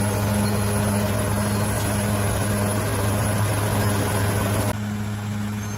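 Bulldozer's diesel engine running with a steady low drone. About five seconds in, the sound abruptly turns slightly quieter and duller.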